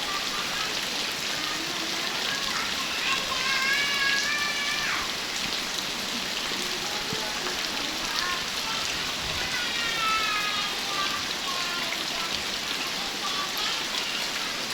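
Heavy rain falling steadily. A pitched, voice-like call is heard twice through it, about 3 seconds in and again about 10 seconds in, each lasting a second or two.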